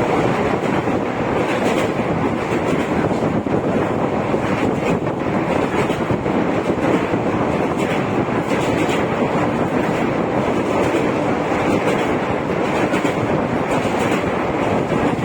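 Samleshwari Express passenger train running along the line, heard from on board: a steady, loud rumble of wheels on rail with a few faint clicks.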